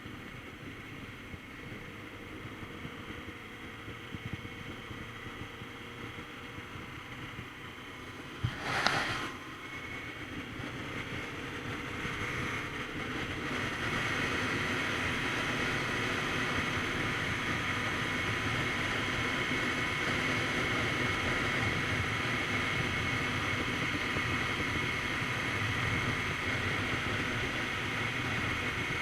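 Wind rushing over the microphone of a Kawasaki Z900RS Cafe on the move, with the bike's inline-four engine running underneath. There is a brief loud rush about a third of the way in, and the noise then grows louder and stays up.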